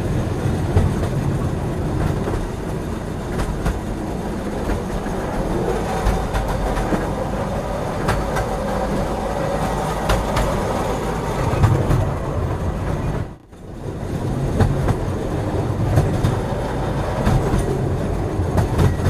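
Train running on the rails: a steady rumble with the wheels clicking over rail joints. The sound dips out for a moment about two thirds of the way through.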